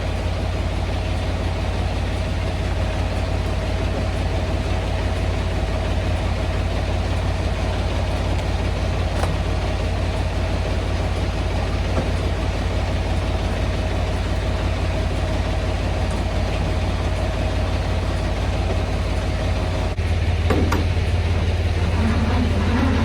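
Semi-truck's diesel engine idling: a steady low rumble with a thin steady whine above it. About 20 seconds in the whine stops, the rumble gets a little louder, and a short knock follows.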